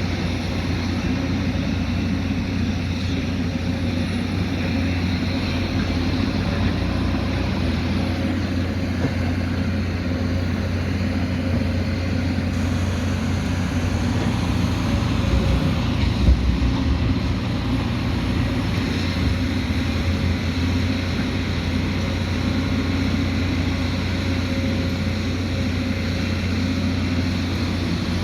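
Diesel engine of a heavy earthmoving machine running steadily under work, with a brief low thump a little past the middle.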